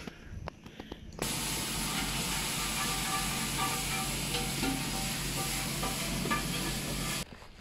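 Food sizzling in a hot pan, starting suddenly about a second in and cutting off near the end, with a few faint short clinks.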